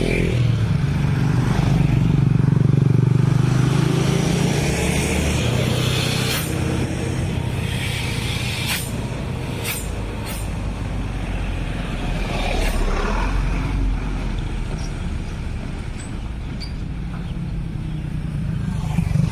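Road traffic passing a railway level crossing: car and motorcycle engines running by, loudest in the first few seconds, with several sharp clacks in the middle.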